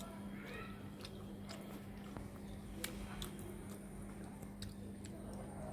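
A person chewing and biting a mouthful of pork curry and rice, with irregular wet mouth clicks over a steady low hum.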